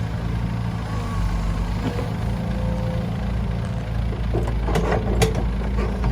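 Heavy diesel engine running steadily at a low, even pitch, with a few sharp metallic knocks and clanks about four and a half to five seconds in.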